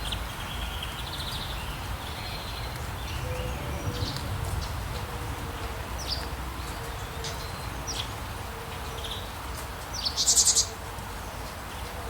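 Wild birds chirping over a steady hiss of rain: scattered short, high chirps, then a loud rapid trill a little past ten seconds in.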